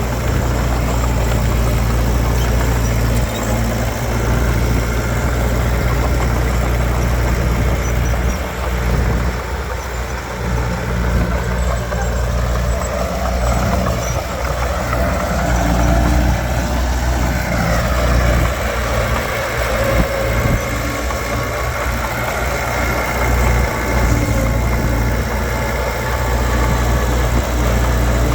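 Heavy diesel earthmoving machinery running steadily with a deep engine drone. About halfway through, a whine rises and then falls in pitch.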